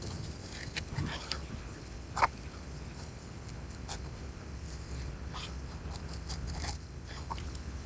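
Freshly sharpened knife making test cuts: a string of short, irregular scraping and slicing strokes of the blade through material, with a few sharper clicks.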